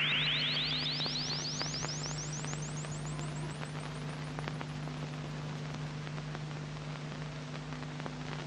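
Electronic synth riser from the ambient soundtrack: a fast run of short chirps climbing steadily in pitch and fading out, over a low steady hum, with faint scattered clicks.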